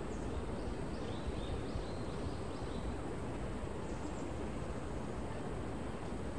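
Steady low rumbling background noise, with a small bird giving a quick run of faint high chirps from about one to three seconds in and a couple more near four seconds.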